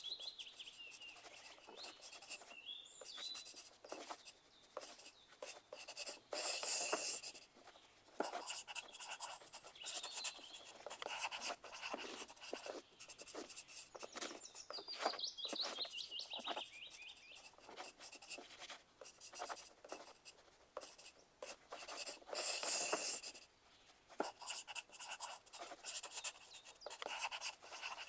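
Pencil writing on paper: a continuous run of short scratchy strokes, with two longer dense stretches of writing partway through.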